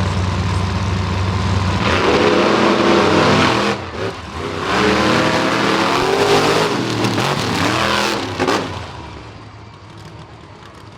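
Monster truck engine running, then revved hard in two long bursts of rising and falling pitch, the first about two seconds in and the second after a brief dip. It then drops back and fades to a low running sound near the end.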